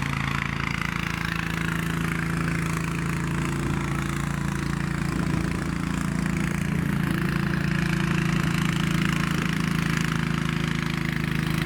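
Snowblower engine running steadily, with a rushing hiss over it.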